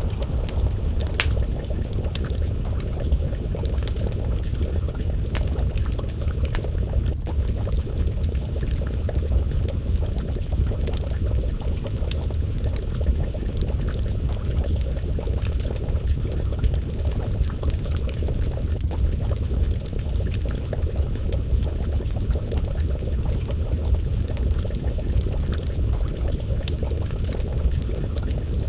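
A pot of stew simmering over an open fire: a steady low bubbling, with scattered sharp crackles and pops of burning wood.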